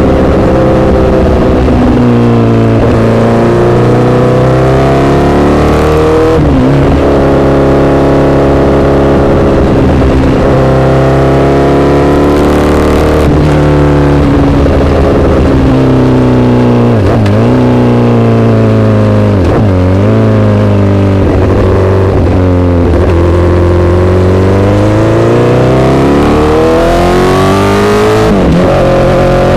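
Honda CBR1000RR inline-four engine through an SC-Project aftermarket exhaust, loud, its pitch falling and rising as the bike is ridden, with several quick dips and recoveries in pitch like gear changes.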